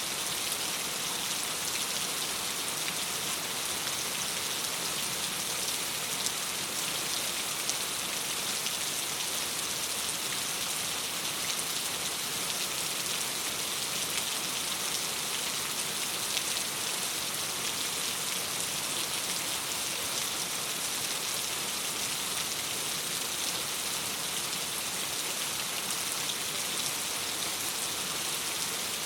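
Steady rain: an even hiss of dense, fine drops that does not change.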